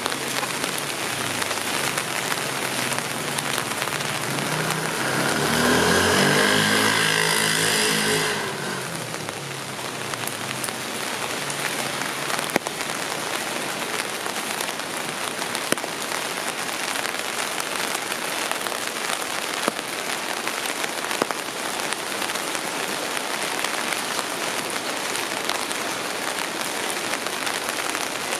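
Steady rain falling on the street. About five seconds in, a motor vehicle passes, its engine rising in pitch and then fading by about eight and a half seconds. A few single sharp ticks stand out later.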